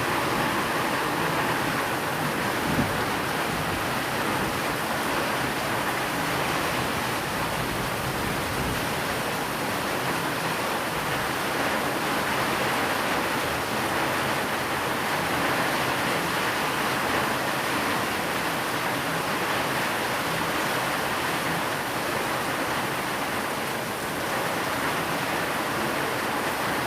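Steady rain hiss blended with white noise, an even, unbroken wash of sound.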